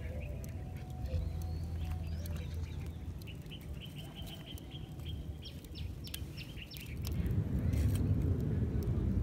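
A small bird calls a quick run of short, evenly spaced high chirps midway through, over a steady low rumble of wind on the microphone. A louder rushing noise rises near the end.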